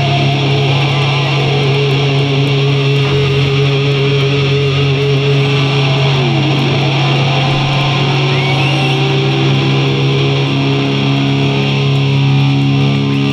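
Live heavy metal band's distorted electric guitars and bass holding a loud, steady droning chord, with one note diving down in pitch about halfway through.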